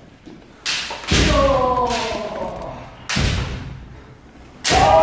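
Kendo practice strikes: sharp bamboo shinai hits and heavy stamping footfalls, four impacts in all. A shouted kiai falls in pitch just after the second impact, about a second in.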